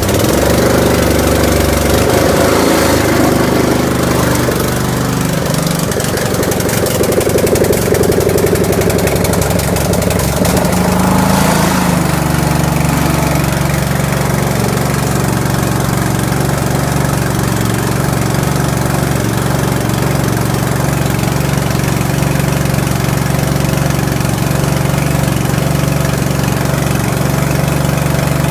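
Carbureted engine just started cold at minus 13 with the choke pulled fully out, running fast and unevenly at first. About twelve seconds in its note drops and settles into a steady idle.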